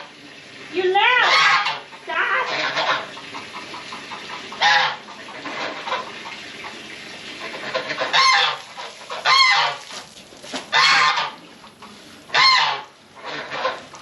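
Geese honking, a string of separate calls a second or two apart.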